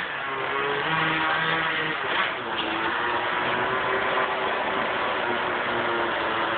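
Small glow-fuel (nitro) engine of an engine-powered RC car running fairly steadily, a buzzing drone whose pitch wavers slightly up and down.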